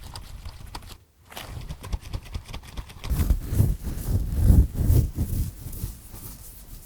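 Close-miked scratching and scraping in irregular rough strokes, of the kind heard in ear-cleaning ASMR. The strokes come densest and loudest from about three to five and a half seconds in, and there is a brief silent gap about a second in.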